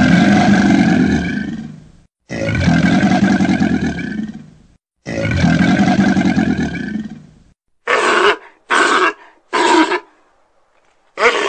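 A crocodile calling: three long, deep calls, each about two seconds long and fading away. About two-thirds of the way in they give way to sea lion barks, four short barks, the last near the end.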